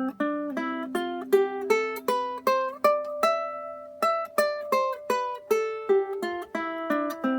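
Concert-size ukulele played solo: a run of single plucked notes, about three a second, with one note held for nearly a second a little after three seconds in. Its strings have not been changed for a long time, and they sound not quite right.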